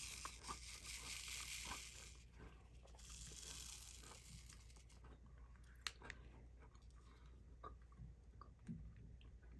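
A person chewing a crunchy cookie close to the microphone: faint, irregular crunches. A high hiss comes and goes during the first five seconds.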